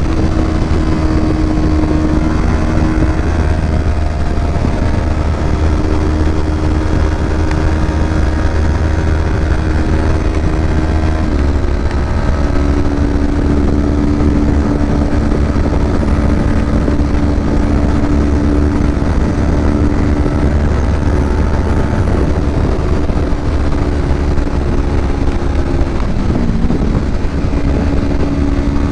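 Kawasaki Ninja 250's parallel-twin engine and exhaust under way on the road, the engine note mostly holding steady. The pitch steps about twelve seconds in, and it dips briefly and comes back up near the end.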